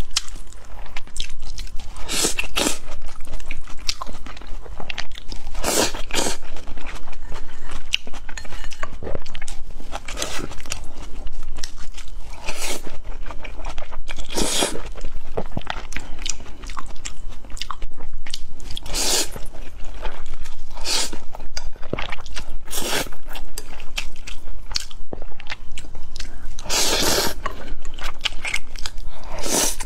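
Close-miked eating: chewing mouthfuls of rice with minced pork glass noodles, with loud wet mouth noises every few seconds.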